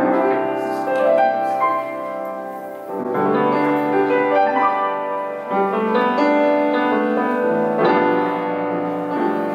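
Piano music: slow chords and a melody played on a piano.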